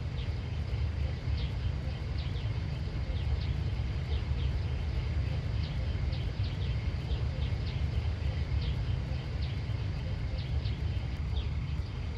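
Outdoor countryside ambience: a steady low rumble, like wind on the microphone, under a chorus of short high chirps from small animals, insects or birds, repeating a few times a second.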